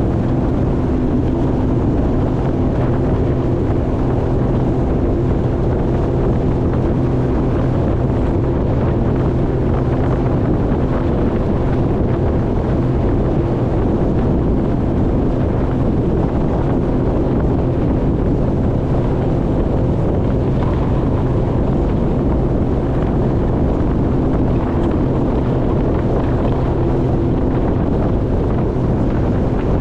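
Jet ski engine running steadily under way, its pitch holding even, with wind buffeting the microphone.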